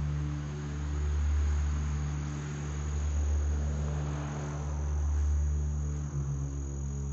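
A steady high chirring of crickets over low sustained droning tones that shift slowly and swell and fade every couple of seconds, like an eerie ambient music bed.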